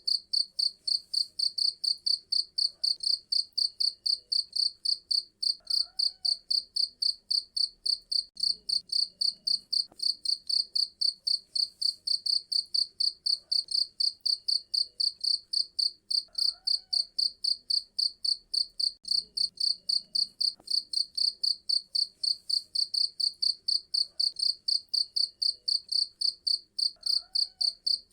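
Cricket chirping steadily in a fast, even rhythm of about three to four high-pitched chirps a second.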